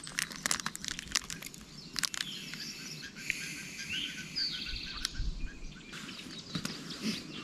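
Wild songbirds chirping and trilling, with a rising trill and a buzzy falling call around the middle, over low outdoor background noise and scattered sharp clicks.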